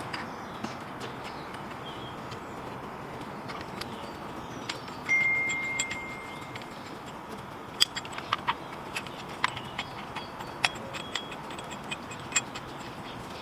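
Light metallic clinks and taps, as of tools and brake parts being handled, with a dozen or so sharp ringing clicks in the second half and a brief high ring about five seconds in.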